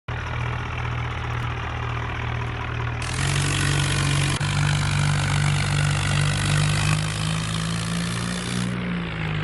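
Swaraj 963 tractor's diesel engine running, stepping up to higher revs about three seconds in, holding there, then easing back near the end.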